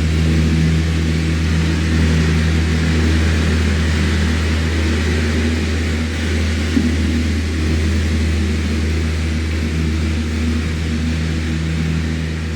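Electric fan running steadily: a low motor hum with a few steady tones above it under an even rush of air. A faint tick comes about seven seconds in, and the sound begins to fade slightly near the end.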